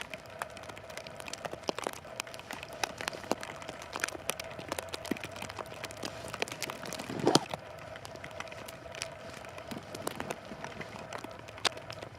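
Plastic wrap crinkling and crackling in many small scattered clicks as it is handled and wrapped around sticks, with one louder crackle about seven seconds in and a faint steady hum underneath.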